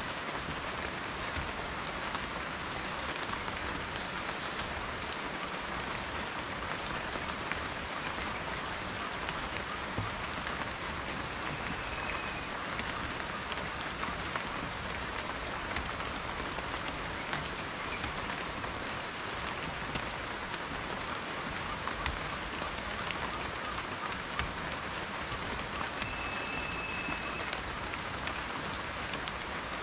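Steady rain falling, a dense even hiss of many small drop hits with occasional sharper drips.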